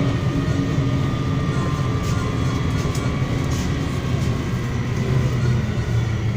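MAZ-103 city bus's diesel engine and drivetrain running steadily while the bus drives, heard from on board, with a thin whine that rises in pitch about five seconds in.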